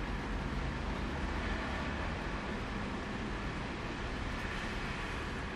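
Steady rain falling on a car's roof and windshield, heard from inside the cabin as an even hiss over a low steady hum.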